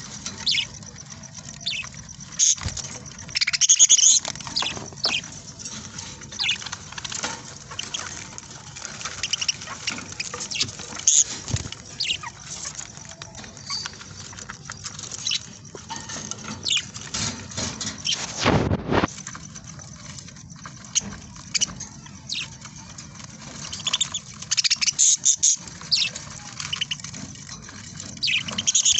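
Budgerigars chirping and chattering: many short, high calls, with a few clearer pitched calls about four seconds in and again near the end. A brief louder noise about two-thirds of the way through.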